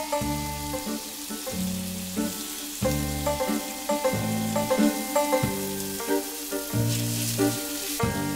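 Sliced onions and red peppers sizzling as they fry in a pan, under instrumental background music with a steady beat. The sizzle briefly grows louder about seven seconds in.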